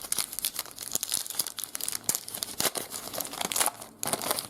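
Plastic wrapper of a trading card pack crinkling and tearing as it is torn open, with irregular crackles throughout and a louder rip near the end.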